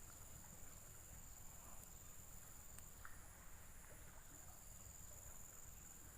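Near silence with a faint, steady, high-pitched drone of insects and a few faint clicks.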